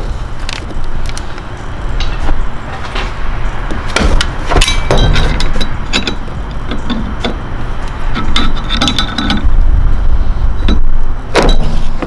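Hand tools clinking, knocking and scraping against metal parts of an A/C compressor pulley. The sharp metallic clinks are irregular, and a few ring briefly, over a low rumble.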